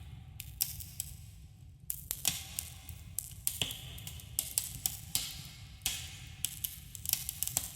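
Campfire crackling: irregular sharp snaps and pops, several a second at times, some ringing briefly in a cave's echo, over a steady low rumble of the burning fire.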